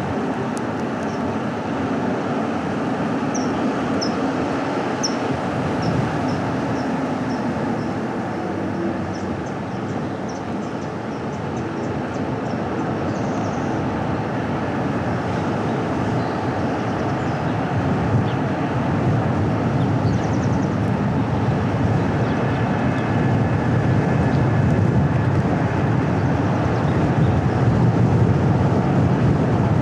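A car driving on a paved road: steady tyre and road rumble with engine noise, growing a little louder near the end. A run of short, high chirps sounds over it between about three and thirteen seconds in.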